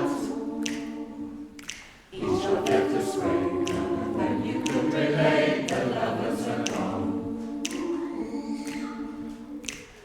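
Community choir singing unaccompanied in harmony, holding chords: one phrase ends and a new one starts about two seconds in, and the singing fades near the end. A sharp click sounds about once a second, keeping time.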